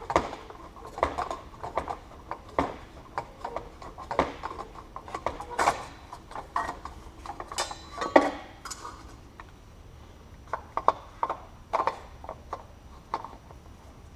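Irregular metallic clicks, clanks and knocks of hand tools and parts as the exhaust is unbolted and pulled off a Kawasaki KLX400 dirt bike, with a longer, louder scrape about eight seconds in.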